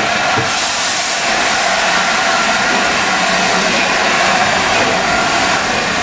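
Loud, steady rushing noise from a steam-hauled train, with no beat of exhaust chuffs.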